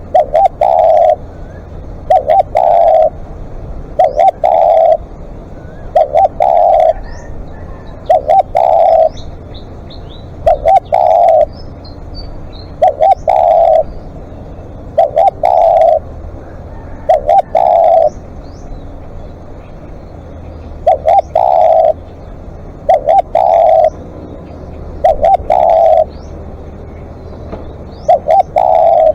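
Spotted dove cooing loudly and repeatedly, about one phrase every two seconds, each a short note followed by a longer coo, with a longer pause about two-thirds of the way through. This is a decoy bird calling long. Faint chirps of other small birds come between the phrases.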